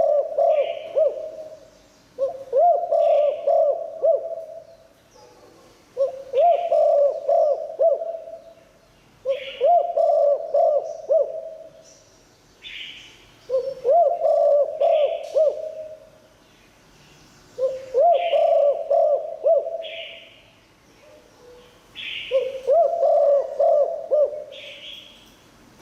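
Spotted dove cooing: a rhythmic phrase of quick coos, repeated about every four seconds, seven times, with a short higher note beside most phrases. It is a calling bird of the kind kept to lure wild spotted doves.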